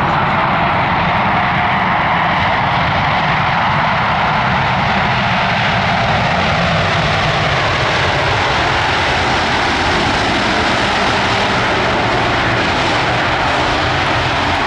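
Boeing 787-8 airliner's twin turbofan engines, a loud steady jet noise as the plane comes in to land.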